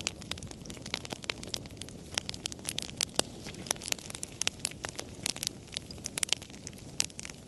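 Campfire crackling: dense, irregular snaps and pops from the burning wood over a low, steady rumble of the flames.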